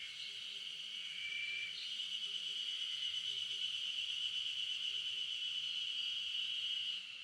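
A steady, high-pitched insect buzz that grows louder about two seconds in and cuts off suddenly near the end, with a few short bird chirps in the first two seconds.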